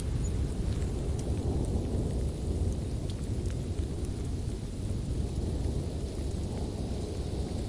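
Wood fire burning in a fireplace: a steady low rumble with a few faint, sharp crackles scattered through it.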